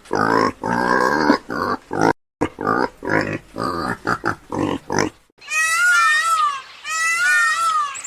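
Pig grunting and squealing in short coarse bursts for about five seconds. It then cuts to a different animal giving high, squeaky calls in repeated falling swoops.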